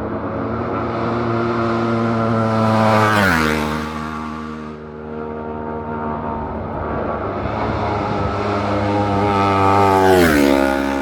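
Two racing motorcycles passing at full speed one after the other, each engine note building as it approaches and then dropping sharply in pitch as it goes by, the first about three seconds in and the second near the end.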